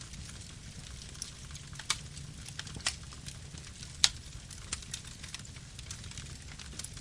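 Campfire burning: a steady low rumble with scattered sharp crackles and pops of burning wood, the loudest pop about four seconds in.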